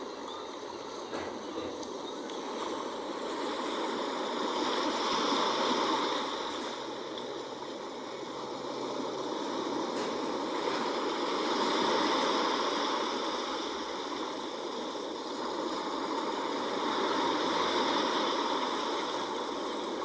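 Sea waves washing in a continuous rush that swells and eases every six seconds or so.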